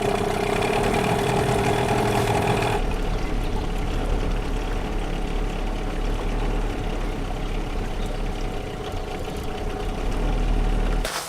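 A boat's outboard motor running steadily, its pitched hum changing abruptly about three seconds in to a rushing noise with a low drone.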